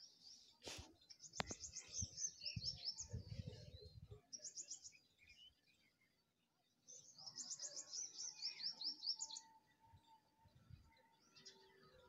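Small birds chirping in fast, high-pitched trilling runs: one long run in the first few seconds, a short one, and another after a pause. A sharp click and some low rumbling thumps come in the first four seconds.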